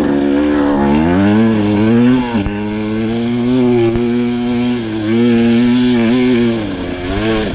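Enduro dirt bike engine revving and held at fairly steady revs. The revs climb about a second in, drop sharply just after two seconds, then hold with small rises and falls, and dip near the end.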